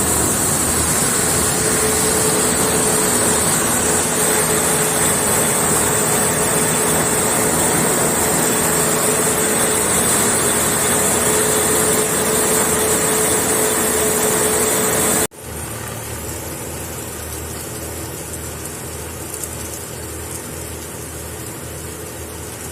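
Combine harvester running steadily with a constant whine over its engine noise; about fifteen seconds in, the sound cuts off suddenly to a quieter, steady engine hum.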